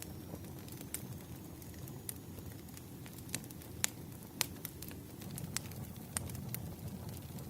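Firewood burning, with a low, steady rumble of flames and irregular sharp crackles and pops, the loudest near the middle.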